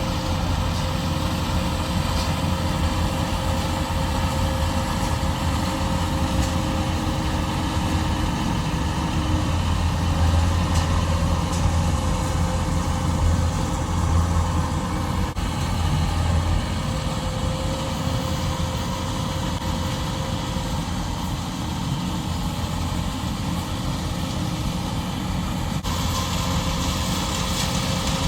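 Combine harvester engine running steadily: a low hum with a thin, steady higher whine over it.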